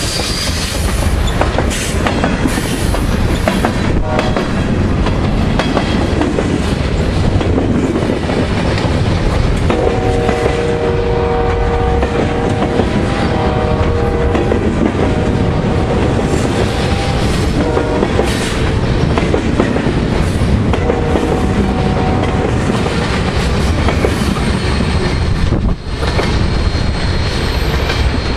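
Freight train of lumber-laden centerbeam flatcars rolling past at close range: a loud, steady rumble with the wheels clacking over the rail joints. Through the middle, a chord-like held tone sounds on and off over the rumble.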